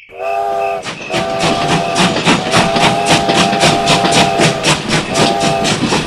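Steam-train sound effect: rhythmic chuffing at about five beats a second, with a chime-like steam whistle sounding in four blasts, short, long, long, short.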